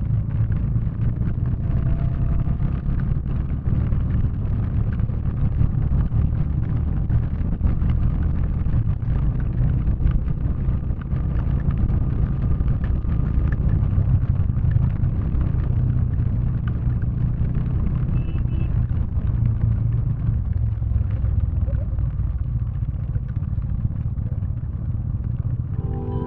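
Motorcycle engine running steadily under way, a dense low rumble that holds an even level with no change in pace.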